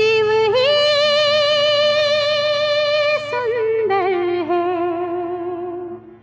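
Background music: a female voice holds long notes with vibrato, stepping down in pitch over a steady low drone, then fades out near the end.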